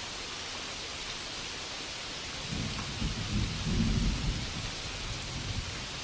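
Steady ambient rainfall hiss, with a low rumble of thunder that swells about two and a half seconds in and fades out a couple of seconds later.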